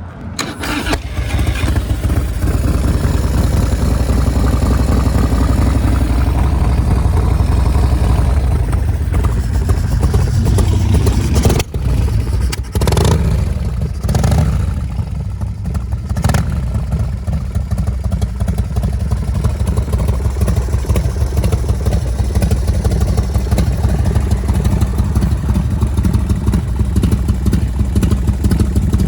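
1993 Harley-Davidson FXRS's Evolution V-twin running through a SuperTrapp exhaust: a few short revs around the middle, then steady idling.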